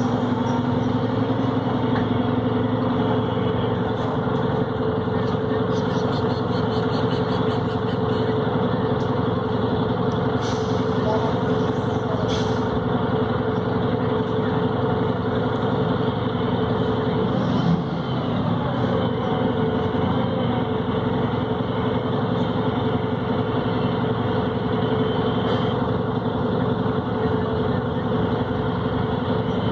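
Volvo B7RLE bus's six-cylinder diesel engine and Voith automatic transmission running steadily under way, giving an even drone with a slight change about two-thirds of the way through.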